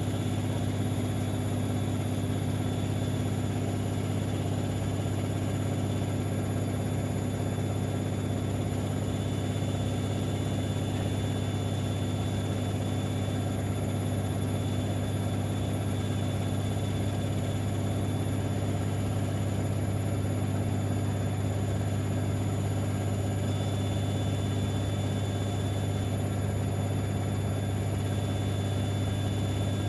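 Siemens Extraklasse XLs 140 A front-loading washing machine running steadily partway through a 60°C cotton wash, with a constant low hum and no pauses.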